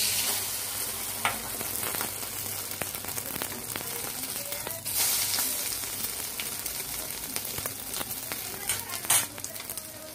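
Egg-dipped bread frying in hot oil in a pan: a steady sizzle with scattered pops and spits. It starts loud as the bread goes into the oil and flares up again about five seconds in.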